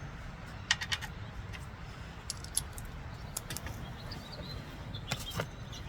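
Light metallic clinks and jingles of small metal pieces, a quick cluster about a second in and a few more scattered through, over a low rumble of wind on the microphone.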